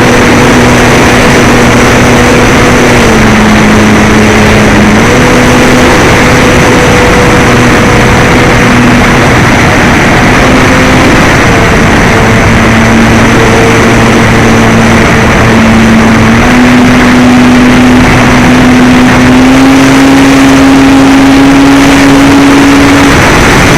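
RC model airplane's motor and propeller running in flight under heavy wind noise, its steady hum shifting lower and higher several times as the throttle changes and ending on a higher note.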